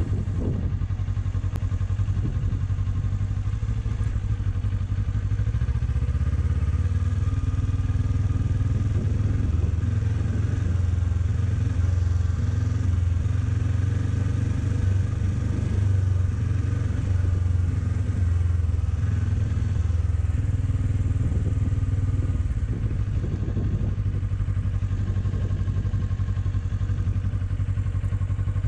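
Kawasaki Ninja 400's parallel-twin engine running steadily at low, even revs as the motorcycle rolls along slowly.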